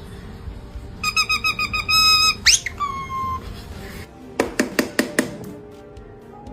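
Parrot whistling a quick run of short beeping chirps, then a held note, a sharp rising whistle and a falling note. A handful of sharp clicks follows about halfway through.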